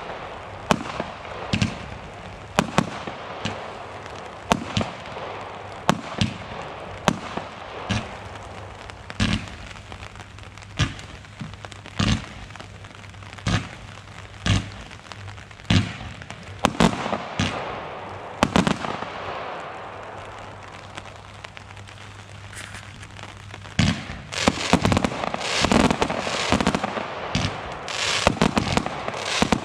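Consumer fireworks going off: a steady string of sharp bangs, about one every half second to second, over crackle and hiss. The bursts thin out past the middle and then come thick and fast near the end, with heavy crackling.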